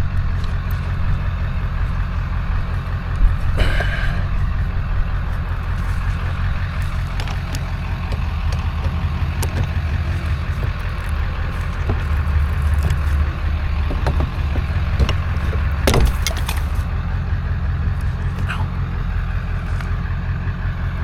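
Steady low rumble of an idling vehicle engine, with scattered light clicks and a few sharper knocks, one of them about 16 seconds in.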